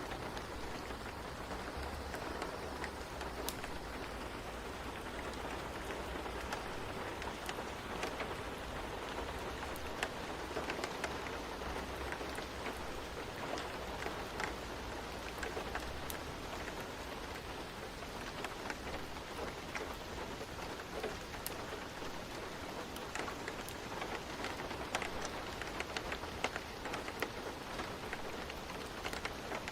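Steady rain ambience with a low rumble underneath, dotted throughout with scattered sharp ticks.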